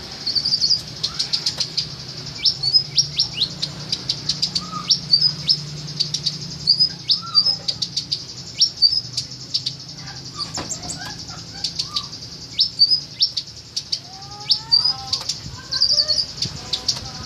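A songbird singing: a rapid series of short, high-pitched chirps and sharp whistled notes, with fainter, lower calls from other birds behind it.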